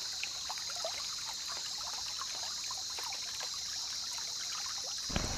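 Water trickling and dripping in many small, irregular drops, over a steady high hiss.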